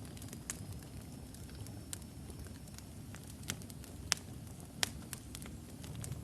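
Wood logs burning in a fireplace: a steady low rumble of the flames with irregular sharp crackles and pops, the loudest a little past four seconds and near five seconds.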